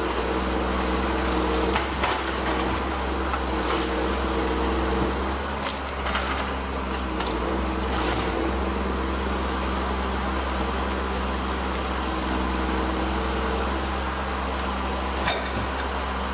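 Heavy machine engine running steadily, with several sharp cracks of wood.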